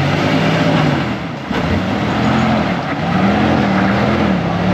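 Jeep engine running on the trail, its pitch rising and falling as the throttle is worked, over a steady hiss.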